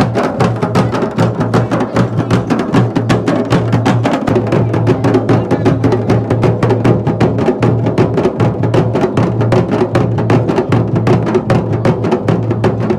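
Fast, steady drumming, several strikes a second, over a continuous low drone.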